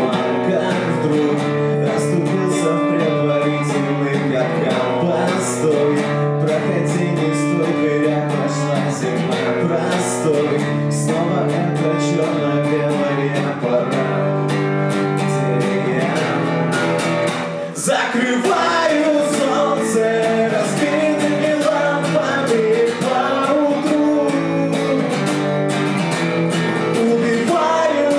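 Acoustic guitar strummed and picked through an instrumental passage of a live song, with a brief sliding pitch glide about two-thirds of the way through.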